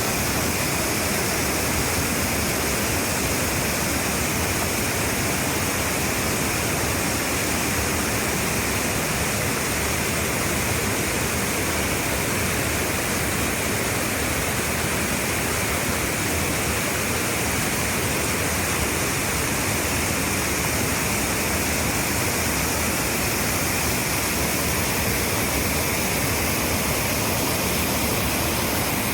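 Fast-flowing river water rushing: a loud, steady roar of moving water.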